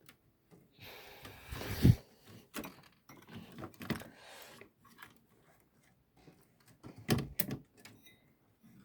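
Handling noise as an original Xbox motherboard is fitted into its case: rustling and scattered knocks and clicks, with the loudest knock about two seconds in and another cluster of knocks around seven seconds.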